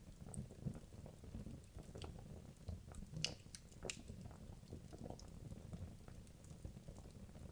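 Wood logs burning in a fireplace: a low, steady rumble of the flames with scattered small crackles and pops, two sharper pops a little past three and four seconds in.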